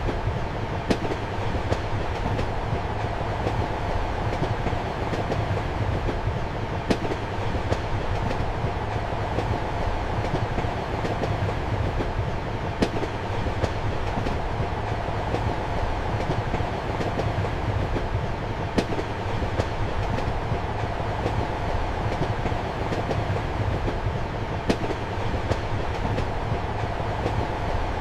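Passenger train running steadily, heard from inside a compartment: a continuous low rumble and rattle of the carriage, with a single sharp wheel clack about every six seconds.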